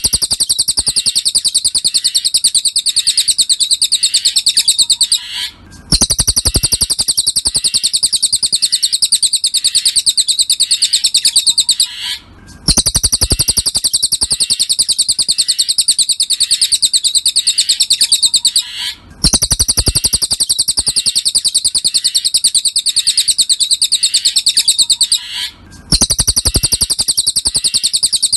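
Cililin birdsong played as a masteran tutoring track: a rapid, continuous high chattering trill in long phrases of about six to seven seconds, each broken off by a short pause of about half a second.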